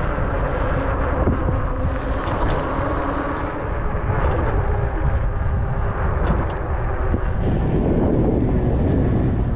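Wind rushing over the microphone of a moving e-bike, a loud steady rush with deep rumble, with a few faint humming tones that shift in pitch beneath it.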